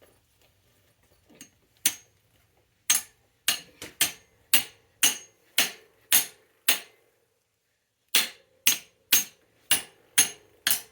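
Hammer blows on metal, about two a second in two runs with a short pause between them, each strike leaving a brief ring.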